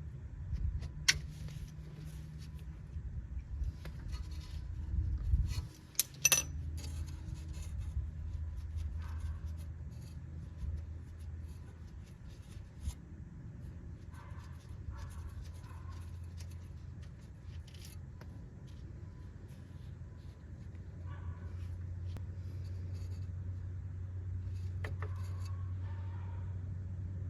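Hand tools and metal parts clinking, rubbing and scraping during work on a rusty wheel hub, with sharp clicks about a second in and again around six seconds in, over a steady low hum.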